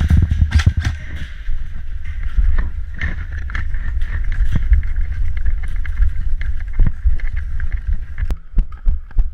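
Wind buffeting the microphone as a heavy low rumble, with many scattered sharp clicks and knocks.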